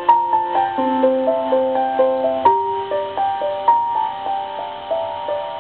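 Solo piano playing the opening of a pop ballad: a flowing run of single ringing notes, about three or four a second, in a repeating broken-chord pattern that fades a little near the end.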